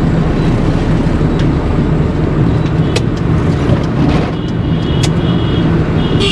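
Steady road and engine rumble heard from inside a moving car, with a couple of faint clicks about three and five seconds in.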